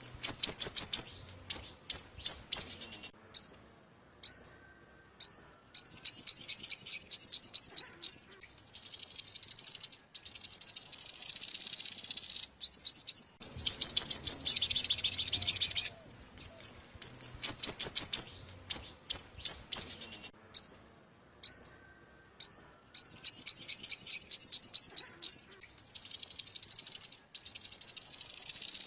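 Sunbird singing: high, thin notes repeated in quick trills and fast rattling runs, in phrases of a few seconds separated by short pauses.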